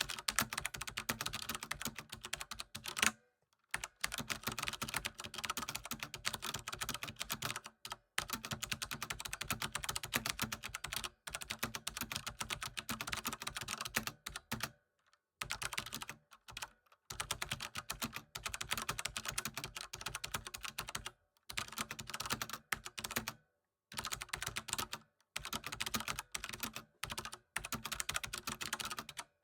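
Typing on a computer keyboard: fast runs of key clicks broken by brief pauses every few seconds.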